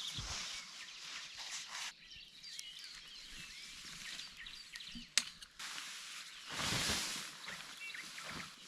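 Outdoor ambience: soft rustling swells and scattered faint bird-like chirps, with one sharp click about five seconds in.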